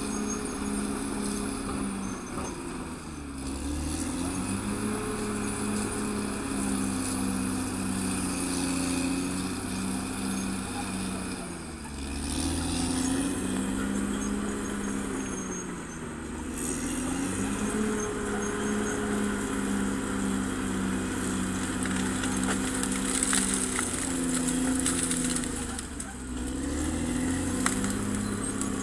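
CAT D6R XL bulldozer's diesel engine running under work, its note dipping and recovering about four times as engine speed drops and picks up again.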